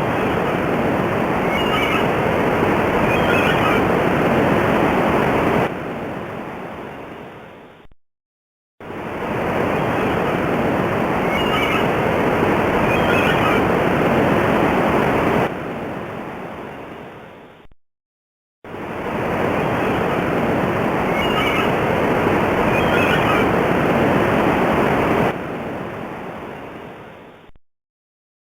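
A steady rushing noise like surf, with a few faint bird calls about two to three seconds into each pass. The same short recording plays three times, each time fading out before a brief silence.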